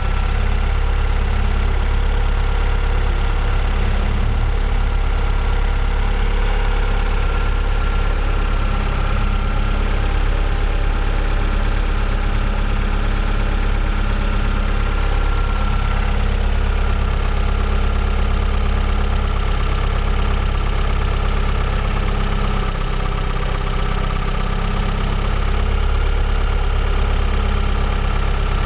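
Chevrolet Vectra 2.2 16V four-cylinder engine idling steadily. It is the engine whose noise the owner traced to worn hydraulic tappets and a broken exhaust manifold stud.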